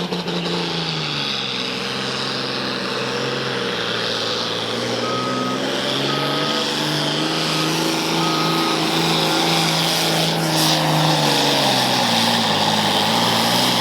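Farmall 560 pulling tractor running hard under load down the track, its engine note holding steady and then dropping in pitch near the end. Four short beeps from a reversing alarm sound in the middle.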